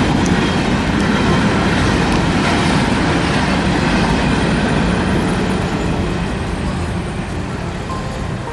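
A freight train's rail cars rolling past close by: a loud, steady, heavy rumble that eases off slightly near the end.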